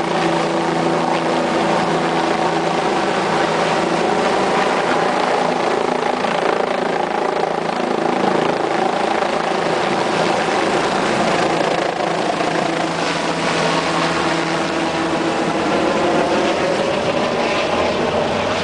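Helicopter taking off: its engine and rotor run loud and steady throughout, with a slight shift in pitch late on.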